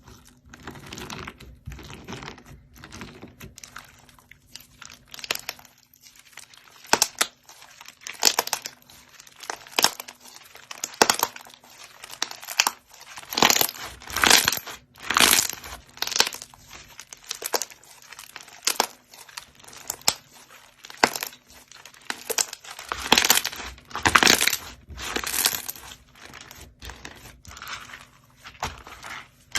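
Slime being squeezed, poked and stretched by hand, giving repeated bursts of sticky crackling and popping roughly once a second, louder in the second half.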